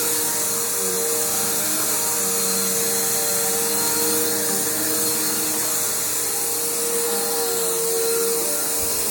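Bissell PowerForce bagged upright vacuum cleaner running steadily while vacuuming carpet, a constant motor drone with a steady whine.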